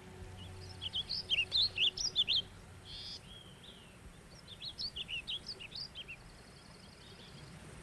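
Small songbirds chirping in quick runs of short, high notes: one busy cluster in the first couple of seconds, and another about halfway through.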